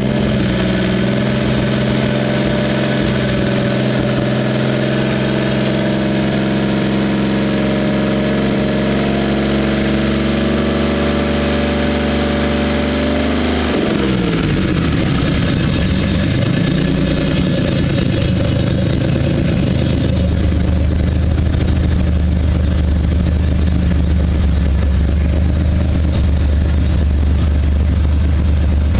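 Modified race car engine running at a raised speed, its pitch slowly creeping up. About halfway through the speed drops sharply, dips and picks up again briefly, then settles into a steady, lower idle.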